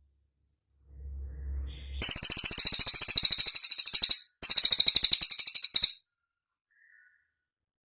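Cililin bird singing: two loud, very rapid high-pitched trills, the first about two seconds long and the second about a second and a half, with a short break between them. A faint low hum comes just before the first trill.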